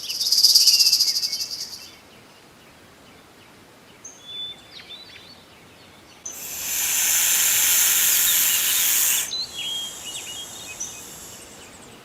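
Insects buzzing in loud, high bursts: one at the start, a longer one of about three seconds in the middle, and another starting near the end. Between the bursts, birds chirp in short calls.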